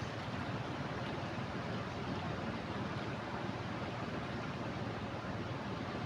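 Steady rushing of a flooded river, an even wash of water noise with no breaks.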